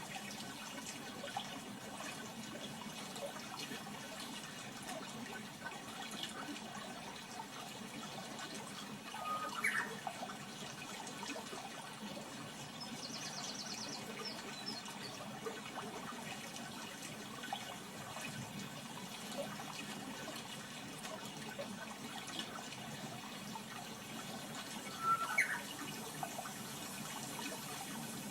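Steady running water, with a short rising chirp twice and a brief high rapid trill in between.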